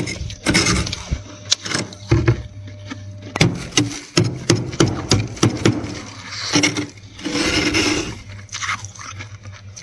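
Flaky freezer frost being scraped and crunched: an irregular run of sharp crackling scrapes and crunches, with a longer scrape about seven seconds in.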